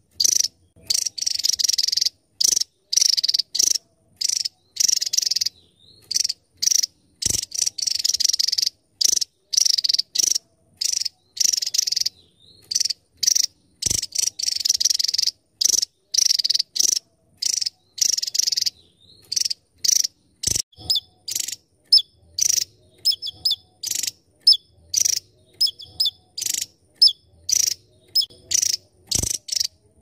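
Javan tesia singing: a fast, unbroken run of short, shrill, very high-pitched bursts, about two a second.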